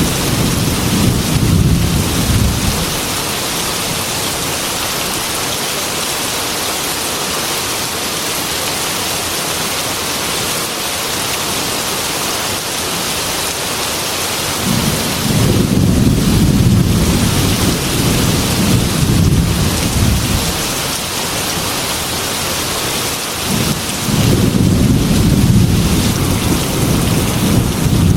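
Heavy rain pattering steadily against a glass window, with rolls of thunder rumbling low: one fading out in the first few seconds, another from about halfway through, and a third starting near the end.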